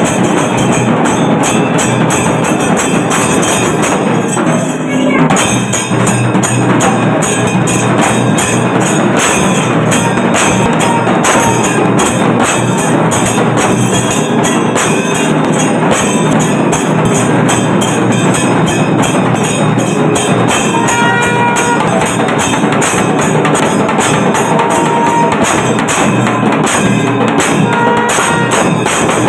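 Kailanatha melam, a Tamil Shaivite temple ensemble, playing loud, fast, driving drums with jingling cymbals. A few held tones sound over the beat about two-thirds of the way through and again near the end.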